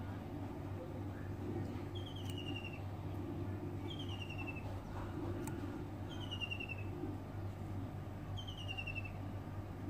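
A bird calling: a short, quick descending trill repeated four times, about every two seconds, over a steady low hum.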